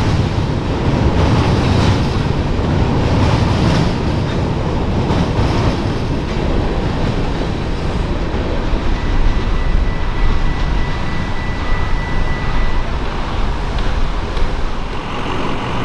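A train rolling past close by: a steady heavy rumble of wheels on rail, with a thin high steady tone for a few seconds midway.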